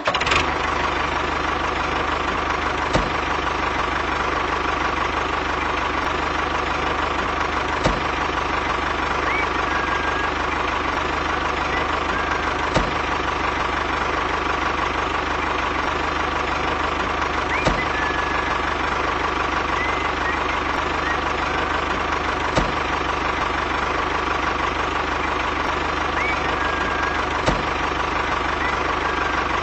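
Engine idling steadily, with a sharp click repeating about every five seconds.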